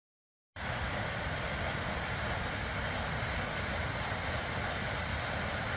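Steady rush of falling water from the Aira Force waterfall, cutting in abruptly about half a second in.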